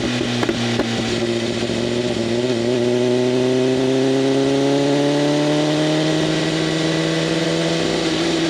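BMW M1000RR's inline-four engine through an open SC-Project CRT exhaust, pulling with the revs climbing slowly and steadily over several seconds before levelling off. A few short pops come near the start.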